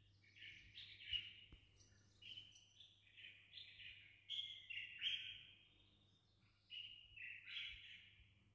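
A small songbird singing faintly: a continuous string of short chirps and trills, some of them sliding in pitch.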